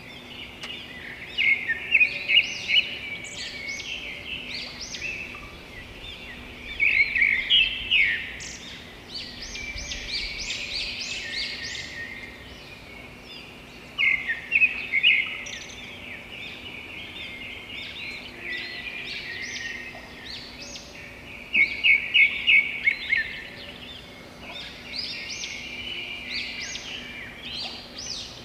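Songbirds singing: bursts of rapid, high chirps and trills come every few seconds, loudest about two, seven, fourteen and twenty-two seconds in, over a faint steady low hum.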